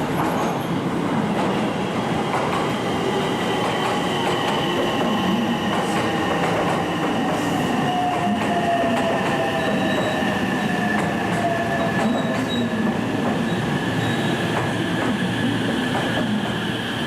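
Train running at a station platform, with steady rumbling and wheel squeal. Several thin high tones slowly fall in pitch across the sound.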